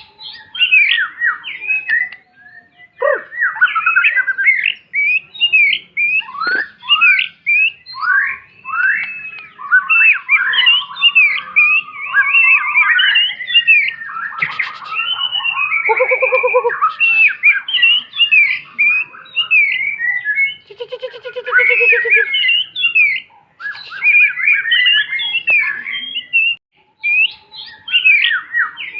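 White-rumped shama singing a long, varied song of quick whistled phrases, with short harsh buzzy notes about 16 and 21 seconds in.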